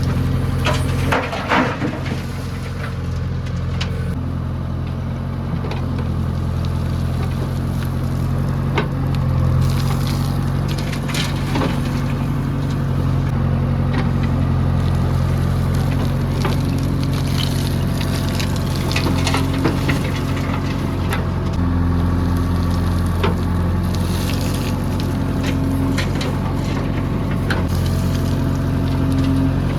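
JCB 3DX backhoe loader's diesel engine running steadily under load, its pitch shifting a little about two-thirds of the way through, with occasional knocks and rattles over it.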